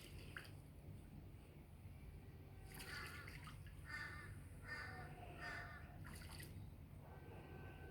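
A bird gives four short calls in quick succession, starting about three seconds in, over faint splashing and dripping of water from a bird bathing.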